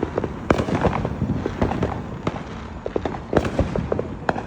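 Consumer fireworks going off nearby: a rapid, irregular run of sharp bangs and crackles, with the loudest reports about half a second in and again past the three-second mark.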